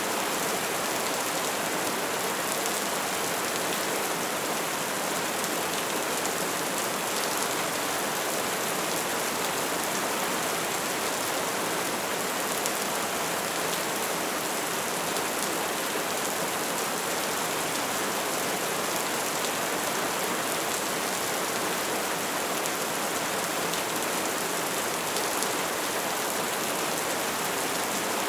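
Steady soft rain falling, an even hiss of many small drops with no thunder or distinct single hits.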